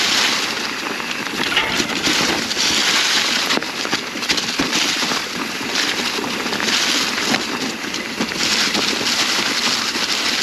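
Mountain bike tyres rolling fast through a thick cover of dry fallen leaves, a continuous crunching and crackling that swells and eases every second or two.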